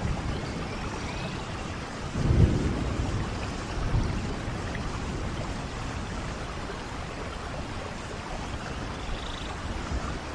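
Steady rainfall with low rolls of thunder, a louder one about two seconds in and a shorter one about four seconds in.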